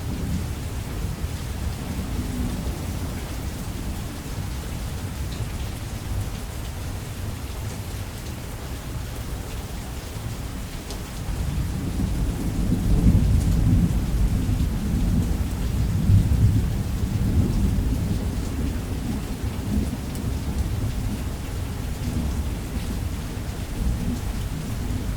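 Heavy rain on a roof with a long rolling thunder rumble. The thunder swells about halfway through, peaks twice, and then eases back under the steady rain.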